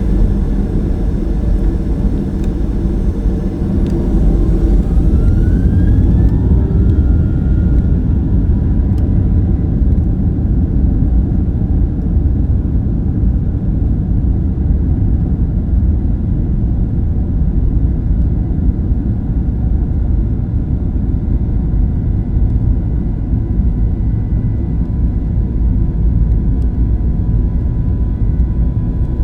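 Boeing 737-800's CFM56-7B engines heard from inside the cabin: a loud, steady rumble with a whine that rises in pitch a few seconds in and then holds steady, as the engines spool up for takeoff.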